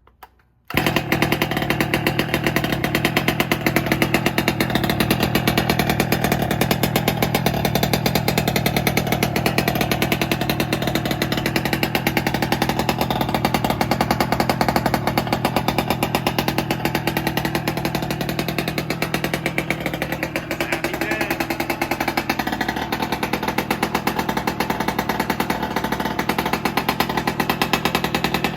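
Small gas engine of a 1/5-scale RC car running at high revs with a fast, buzzing firing rhythm. It starts abruptly just under a second in, and the revs dip briefly about twenty seconds in.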